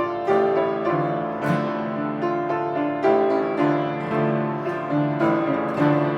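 Piano playing an instrumental interlude between sung verses of a hymn, a slow melody of held notes over chords.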